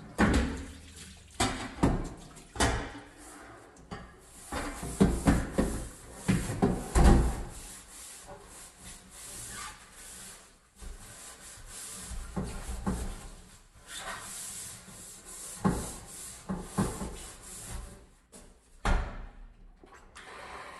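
Scrubbing and brushing on a stove or oven during cleaning: a run of sharp knocks and scrapes in the first few seconds, then a long stretch of hissy, repeated brushing strokes, with another knock near the end.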